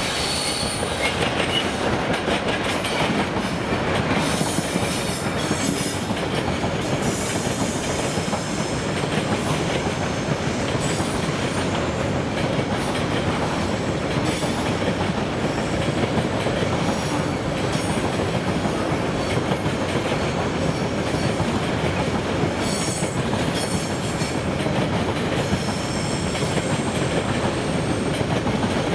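A train rolling steadily past on the rails, its wheels clicking over the rail joints, with high-pitched wheel squeals coming and going several times.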